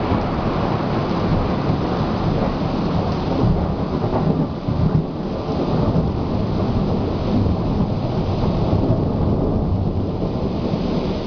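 Thunderstorm: thunder rumbling continuously, low and loud, over steady rain.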